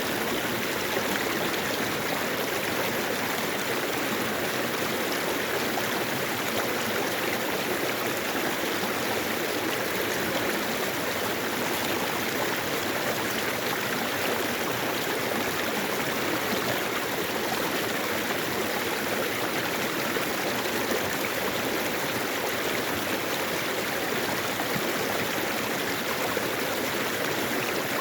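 Mountain valley stream flowing over rocks: a steady, even rush of running water.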